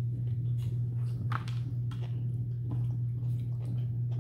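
Close-up chewing of sushi: soft wet mouth smacks and small clicks, over a steady low hum.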